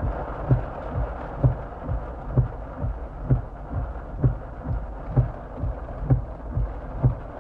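A car's windshield wipers thumping in a steady rhythm about once a second, over a steady hiss of rain on the car.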